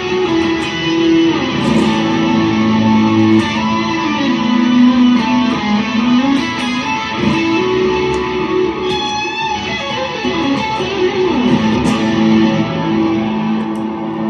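Electric guitar played through an effects pedalboard: held, sustained notes with a few sliding pitches, wide and ringing from the time-based effects.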